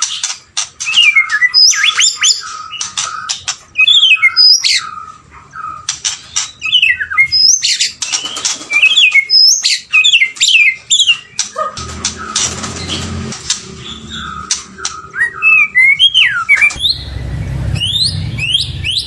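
White-rumped shama singing a fast, varied song of whistled notes, rising and falling slurs and sharp clicks. A low rumble comes in near the end.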